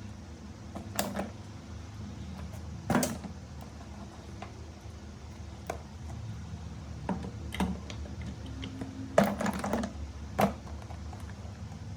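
Irregular sharp clicks and knocks of small hard parts being handled on a workbench, about eight in all with a quick cluster near the end, over a steady low hum.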